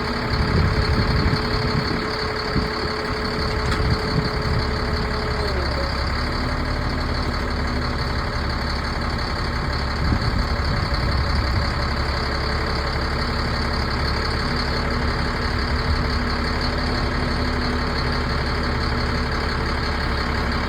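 2004 Ford F650 dump truck's diesel engine running steadily at idle, with a thin steady whine over it that drops to a lower pitch about five seconds in and holds there.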